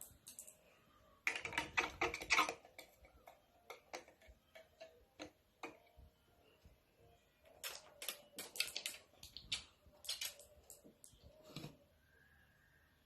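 Irregular small clicks and taps from handling, coming in two dense flurries about a second in and around eight seconds in, with scattered single ticks between.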